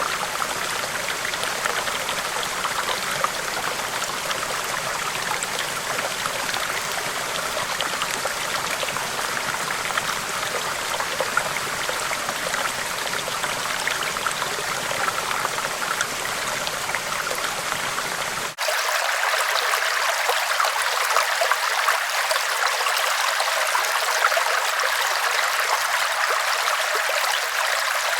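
River water flowing steadily in an even rush. About two-thirds of the way through it cuts abruptly to another take of flowing water, a little louder, brighter and without the low rumble.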